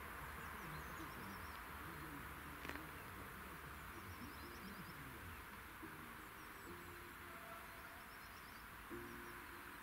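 Quiet outdoor ambience: a steady low hiss with small birds chirping faintly in short, repeated high trills, and a single sharp click about three seconds in.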